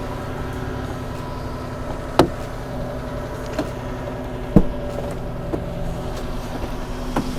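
U-Haul rental truck's engine idling steadily, with a few sharp clicks or knocks, the two loudest about two and four and a half seconds in.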